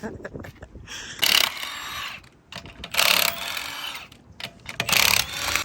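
Wrench spinning truck lug nuts in three short bursts, about two seconds apart.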